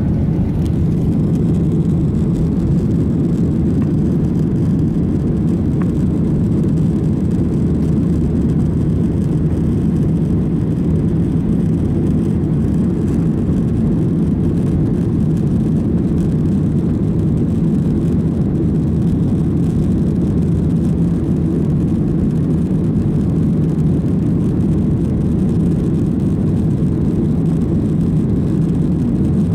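Steady low drone inside a jet airliner's cabin: engine and airflow noise, even throughout with no changes.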